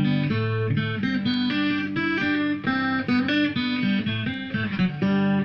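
Acoustic guitar fingerpicked, a melody of single plucked notes over a moving bass line, each note ringing on.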